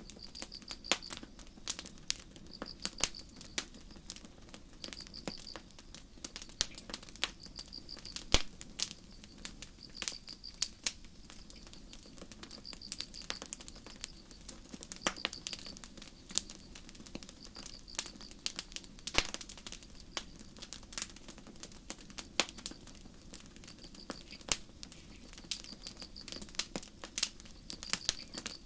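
Campfire crackling, with frequent irregular sharp pops and snaps over a low steady rush of burning. Crickets chirp alongside in short high-pitched trills, one every two seconds or so.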